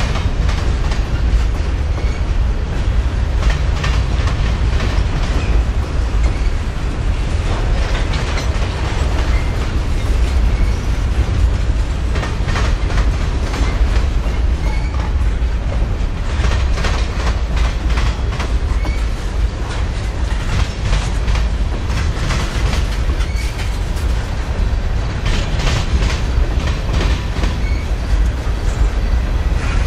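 Freight train cars rolling past: a steady heavy rumble, with the wheels clacking in clusters over the rail joints.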